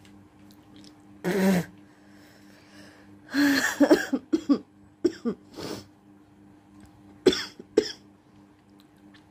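A person hocking up phlegm with harsh, rasping throat-clearing, in several bouts with the longest about three seconds in, then two short, sharp spits near the end.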